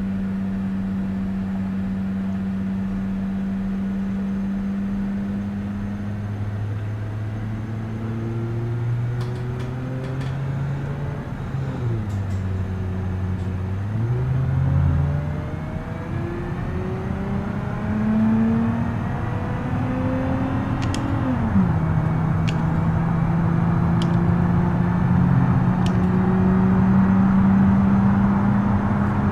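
Minivan engine running, then revving up in pitch and dropping back twice, about halfway through and again about two-thirds in, before settling to a steady speed. A few faint clicks are heard along with it.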